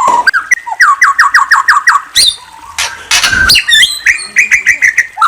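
A murai (Copsychus magpie-robin or shama) singing: a fast run of about a dozen short whistled notes, each dropping in pitch, then a sharp rising note, a harsh noisy call about three seconds in, and more quick whistles and trills.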